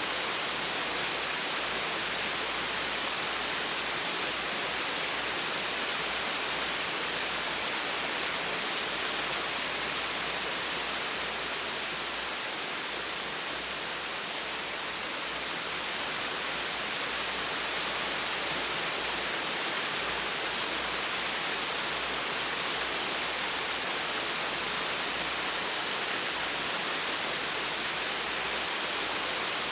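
Gentle waterfall: water falling in a steady, even rush that dips slightly in level about halfway through.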